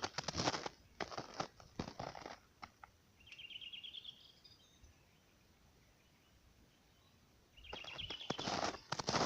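Footsteps crunching through the forest floor, in two bouts with a quiet pause between them. A small bird gives a short rapid trill twice, once in the middle and once near the end.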